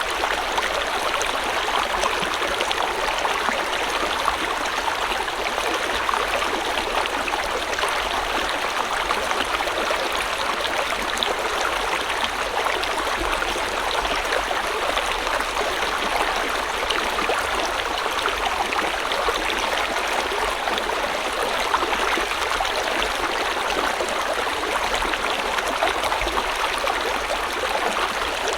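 River water flowing steadily: a continuous, even rush of water with no breaks or changes.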